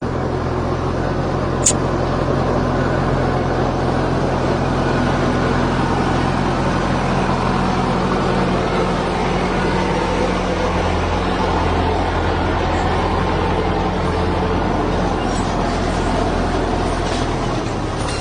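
A motor vehicle's engine running steadily with a low hum and road noise, with one short high-pitched squeak about two seconds in.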